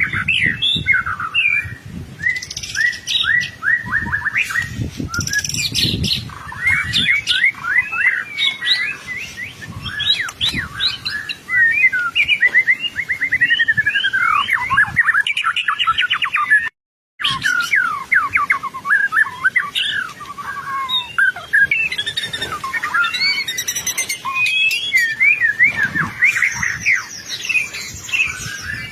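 White-rumped shama singing loud and without pause: a fast, varied run of whistles, sweeping notes and trills, with the sound cutting out for a split second about two-thirds of the way through.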